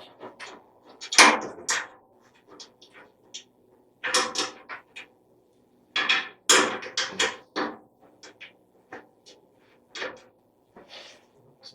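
Irregular clinks and knocks of metal hand tools as wrenches are picked up, tried and set down while someone searches for the right size.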